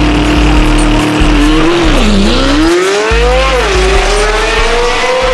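High-performance car engine under hard acceleration down a drag strip, its pitch climbing steadily and dropping suddenly at upshifts about two and four seconds in.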